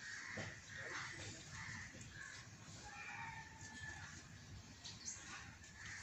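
Faint bird calls, short notes repeated a few times a second over a low background rumble.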